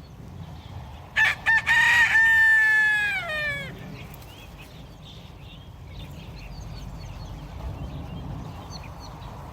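A rooster crowing once, starting about a second in: two short notes, then a long held note that falls away at the end.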